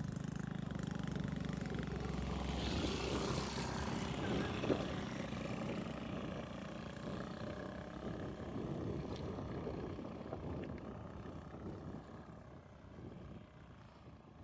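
A motor vehicle engine running steadily with a low hum that slowly fades toward the end.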